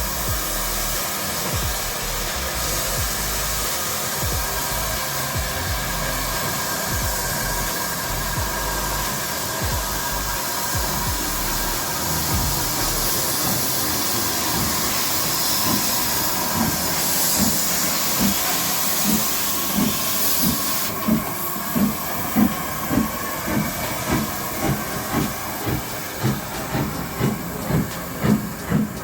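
Steam locomotive hissing steadily, then working off with exhaust beats that start about halfway through and quicken to two or three a second.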